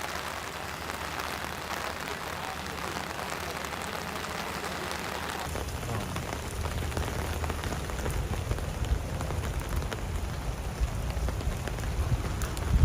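Rain falling and pattering on hard surfaces in a steady downpour. About five seconds in the sound changes abruptly, with a deeper rumble under the rain.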